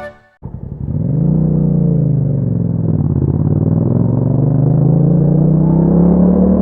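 Yamaha MT-07's 689 cc parallel-twin engine running through an Akrapovic exhaust, rising in pitch as it pulls, dipping about three seconds in, then climbing steadily again.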